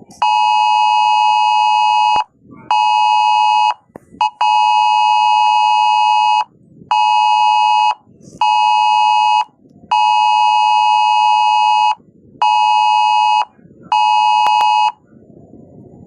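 Storm warning alarm sounding: a harsh, steady buzzing tone that comes in blocks of one to two seconds separated by short gaps, then stops about fifteen seconds in.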